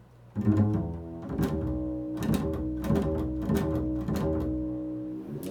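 Improvised instrumental music: a string instrument playing a slow run of single notes, each struck sharply and left ringing over the others.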